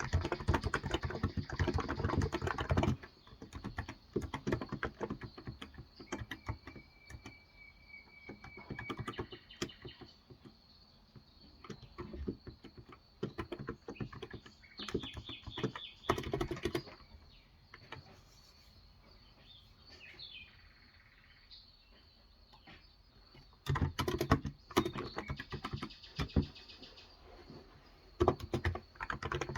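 Typing on a Cox Endeavour electrostatic capacitive (Topre-style) keyboard with 35 g switches: fast runs of keystrokes for the first few seconds and again near the end, with sparse single keypresses between. Faint bird chirps sound in the background.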